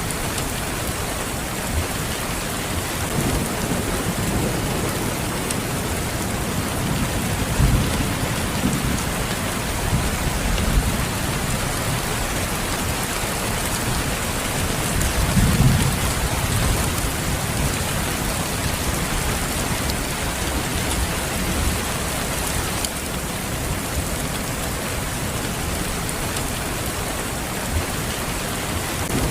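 Steady, heavy rain falling, with low rumbles of thunder rising and fading a few times, the strongest about half way through.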